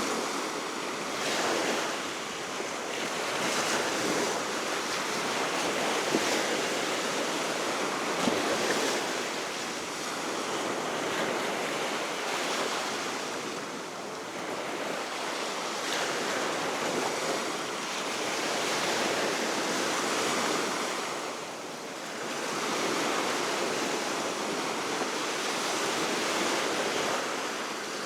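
Baltic Sea surf breaking and washing on the shore, the noise swelling and easing every few seconds, over a steady wind.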